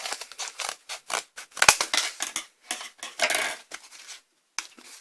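Plastic retail packaging of a microSD card being opened: irregular crackling, scraping and snapping of stiff plastic, with one sharp knock about a second and a half in and a short pause near the end.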